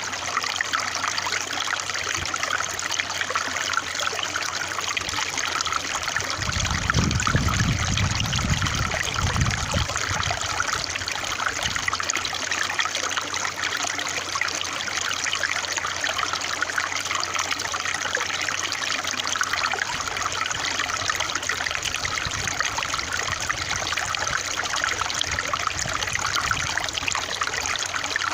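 Water trickling and babbling steadily, as in a small stream. A brief low rumble comes in about seven seconds in and fades by about ten seconds.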